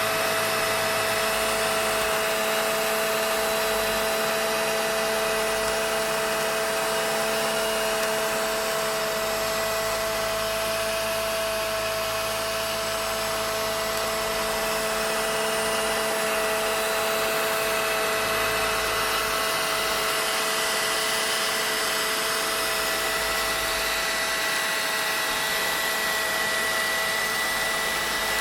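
Vacuum cleaner running steadily: a constant rush of air under an unchanging motor whine.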